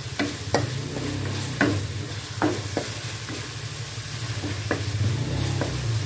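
Ground spice paste sizzling as it fries in hot oil in a non-stick wok, with a spatula scraping and tapping against the pan at irregular intervals as it is stirred. This is the sautéing stage, cooking the paste until it turns fragrant.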